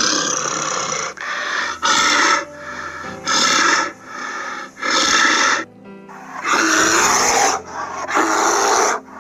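A bear calling again and again: about six loud calls, each under a second long, about a second and a half apart.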